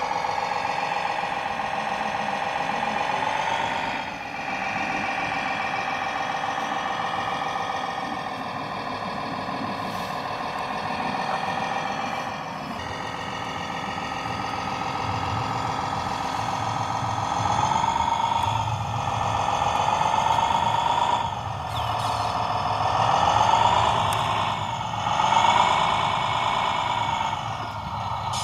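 Whine of a radio-controlled model's small electric motor and gearing, its pitch rising and falling again and again as the throttle is worked, with a low rumble joining it in the second half.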